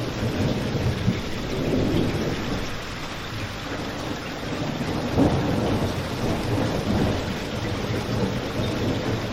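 Steady rain with a deep rumble, mixed with a crackling fireplace; an occasional sharp pop stands out, about a second in and again a little after five seconds.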